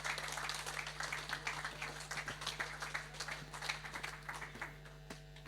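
Congregation applauding, the clapping thinning and dying away near the end.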